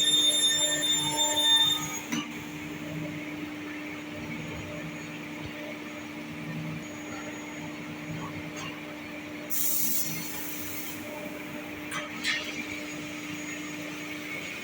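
Sliding table panel saw running with a steady hum. A high-pitched whine sounds over roughly the first two seconds, a short hiss comes about ten seconds in, and a couple of clicks about twelve seconds in.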